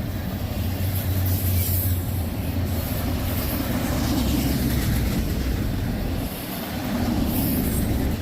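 Freight train rolling past at close range, a steady, continuous noise of wheels and cars with a low hum underneath.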